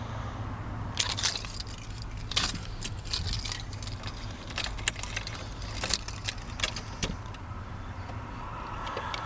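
Keys jangling and clicking at irregular intervals over a steady low hum. Near the end a denser rising noise begins as the 1991 Chevrolet Silverado's engine is cold-started.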